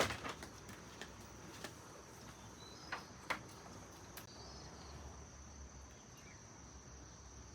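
Steady, high-pitched insect trill, typical of crickets, with a few scattered light clicks or knocks, the sharpest about three seconds in.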